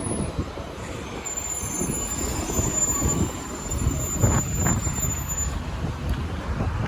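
Road traffic, vehicles running past in low swells, with a thin high-pitched squeal from about a second in until past the middle.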